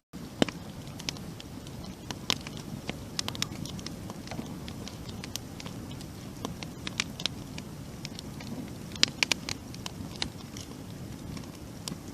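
Wood campfire crackling: irregular sharp pops and snaps over a low, steady flame noise.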